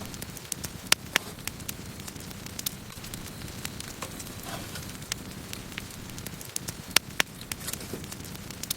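Campfire of burning wood crackling and popping, with a steady low rumble of flame and irregular sharp snaps; the loudest pops come about a second in and about seven seconds in, and there is a short hiss near the middle.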